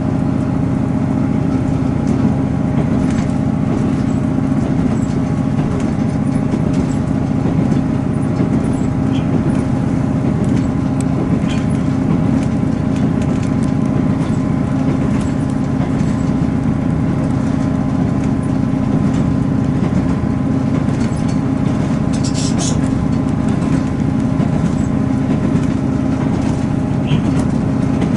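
Class 158 diesel multiple unit running along the line, heard from inside the carriage: a steady engine and transmission drone over the rumble of wheels on the rails, with a few faint clicks and rattles.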